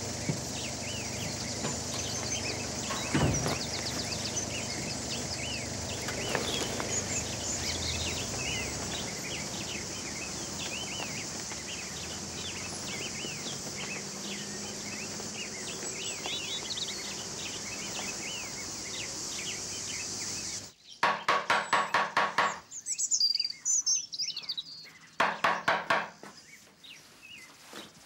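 Woodland birds singing, many short chirps over a steady high hiss, with a single thump about three seconds in. About twenty seconds in, the hiss stops suddenly, and a bird gives a loud, rapid chattering call twice, with a few high chirps between the two bursts.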